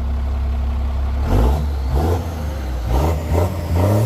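A truck engine drones steadily, then is revved hard in four or five quick surges from about a second in. Each surge comes with a rush of noise, as the truck is pushed through deep mud holes.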